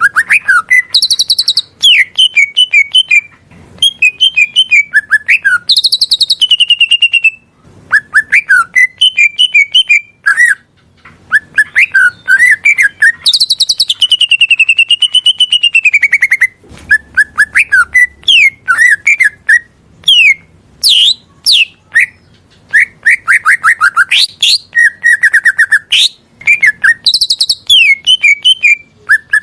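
Cucak ijo (green leafbird) singing a fast, varied song of chirps, trills and sliding whistles, with one long wavering whistle about halfway through.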